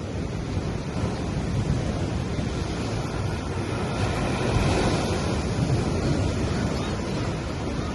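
Gentle sea waves washing onto a sandy beach, the wash swelling louder about halfway through.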